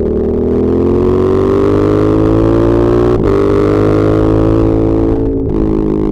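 Ducati Monster 1200S L-twin engine and exhaust under way, the pitch rising steadily for the first three seconds as it pulls, with a short click about three seconds in. It then holds steady and dips slightly near the end.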